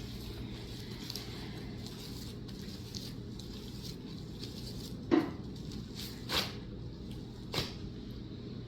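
Hands kneading and mixing cloud slime (glue slime with instant snow powder and a little water): soft squishing and crackling, with three louder squishes a little past halfway.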